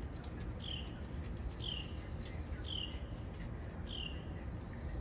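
A small bird calling over and over, a short falling chirp about once a second, with fainter higher notes between. These are plausibly the alarm calls of a parent bird whose chick has just been taken by a cat.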